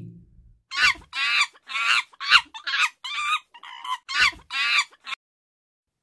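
Chimpanzee calling: a rapid series of about ten short, shrill calls over some four seconds, stopping about a second before the end.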